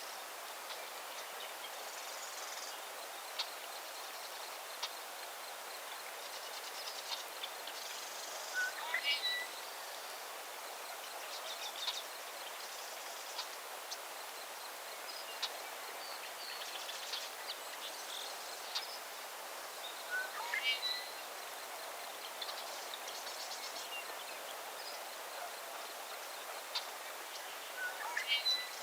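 Outdoor nature ambience with wild birds singing over a steady hiss. One bird repeats a short rising song phrase three times, about ten seconds apart, with other scattered chirps and calls between.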